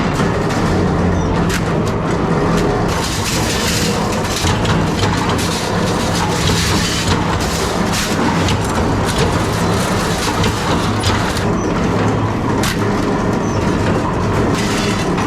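Factory machinery running with a steady low hum, under scattered sharp metallic clicks and knocks from metalworking.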